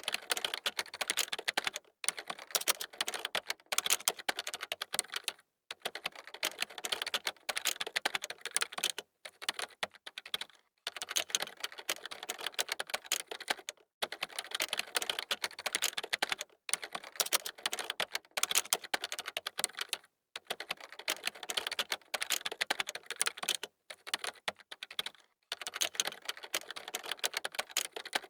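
Fast typing on a computer keyboard: dense runs of key clicks broken by brief pauses every second or two.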